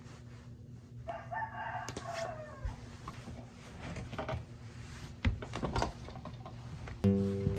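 A rooster crowing once, a single call of nearly two seconds, followed a little later by a few light knocks. Guitar music starts near the end.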